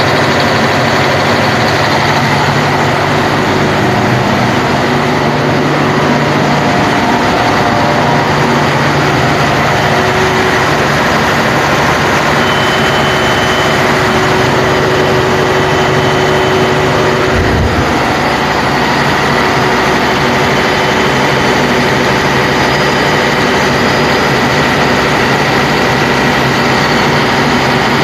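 An engine running steadily at idle on a test run, with a brief low thump about two-thirds of the way through, after which the note changes slightly.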